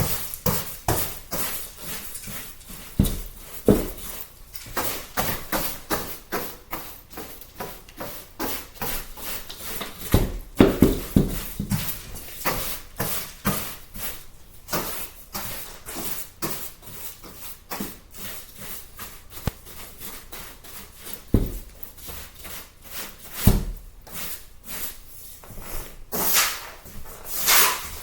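Floor tiles being tapped down and fitted into place with a light tapping tool: many quick irregular taps and clicks, with a few heavier knocks.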